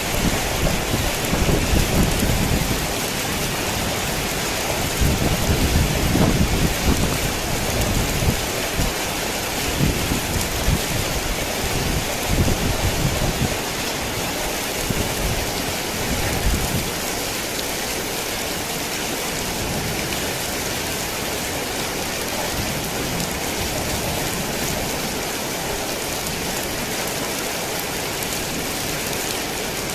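Heavy rain falling steadily as an even hiss, with rolling thunder rumbling low and uneven through roughly the first half and dying away after about seventeen seconds.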